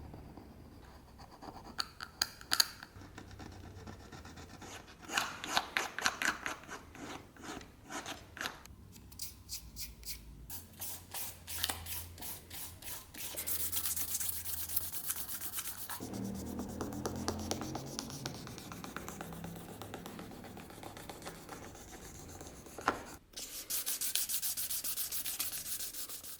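Quick, repeated hand-rubbing strokes of a brush or abrasive scrubbing an old knife, in several stretches that change abruptly between takes.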